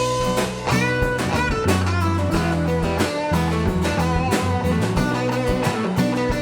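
Band playing an instrumental passage with no vocals: guitar lines over steady bass notes and a drum kit.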